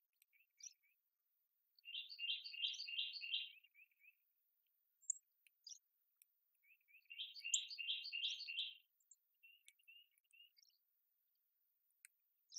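A small songbird sings two phrases, each a quick series of about half a dozen repeated high notes trailing off, about five seconds apart. Short scattered chirps come between them.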